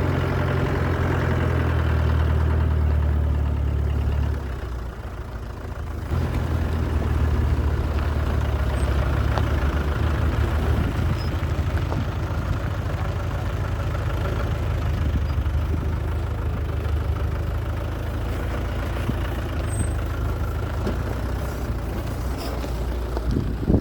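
Land Rover Discovery 1's engine running steadily and deep, with a brief drop in level about four seconds in.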